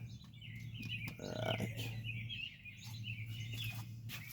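Small birds chirping repeatedly, short quick notes over a steady low hum, with a few light clicks.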